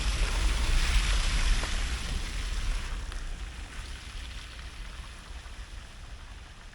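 Storm waves crashing on the shore with gale-force wind rumbling on the microphone, fading away gradually from about two seconds in.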